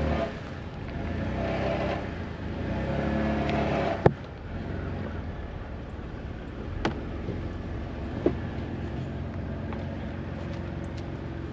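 Jeep Wrangler engine revving in two pulls while towing, straining against a Ford Ranger whose parking brake is still on. A sharp loud crack comes about four seconds in, then the engine settles to a steadier idle with a couple of light clicks.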